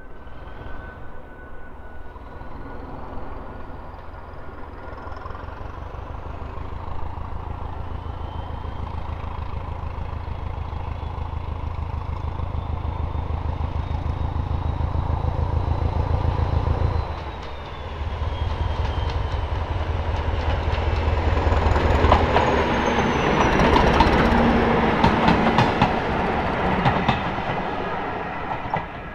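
Train approaching and passing on a heritage line. A steady low drone grows louder and dips briefly about two-thirds of the way through, then louder repeated clicking of wheels over rail joints as the train goes by.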